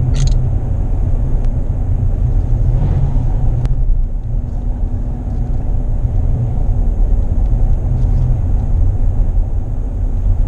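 A car driving along at slow speed: a steady low rumble of engine and tyres on the road, with a brief sharp high-pitched sound just after the start.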